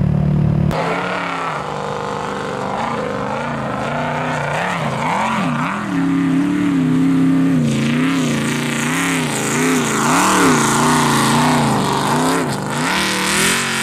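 Nissan engine and exhaust being revved again and again, the pitch rising and falling in quick blips. It follows a brief steady note that changes abruptly less than a second in.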